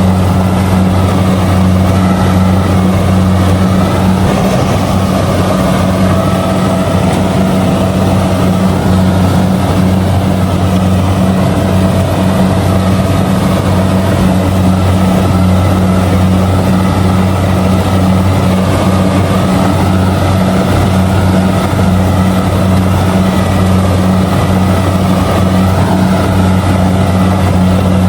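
Kubota DC70G combine harvester's diesel engine running at a steady working speed while harvesting rice, a loud constant hum that does not change.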